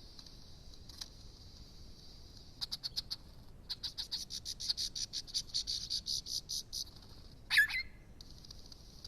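Superb lyrebird song: runs of rapid pulsed notes repeating about five a second, then one sharp, loud call near the end, over a steady high insect-like buzz.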